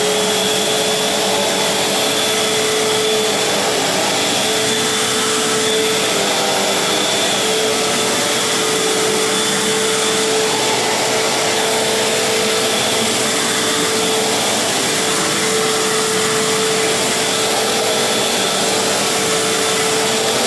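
Fantom Crosswind 200XL bagless cyclonic upright vacuum cleaner running steadily: a constant motor whine over the rush of air, nice and quiet for a vacuum.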